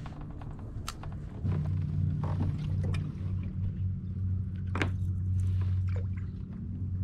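A motor's low, steady hum sets in abruptly about a second and a half in and keeps running, with scattered light clicks and knocks over it.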